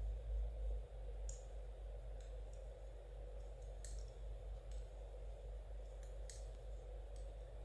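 Knitting needles clicking softly as stitches are worked, in light irregular taps, over a steady low background hum.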